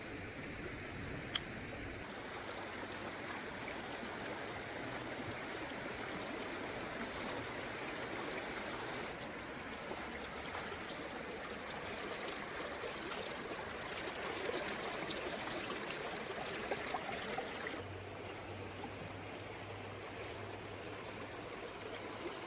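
Steady rush of flowing stream water, with a sharp click about a second in.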